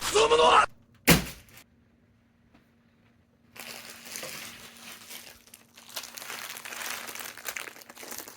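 Plastic candy wrapper of a fun-size Snickers crinkling as it is handled, from about three and a half seconds in. Before it come a short pitched sound and a sharp knock within the first second or so, then a pause.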